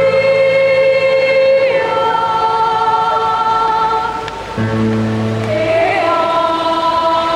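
Children's choir singing a Christmas carol in long held chords, moving to a new chord about two seconds in and again near the middle.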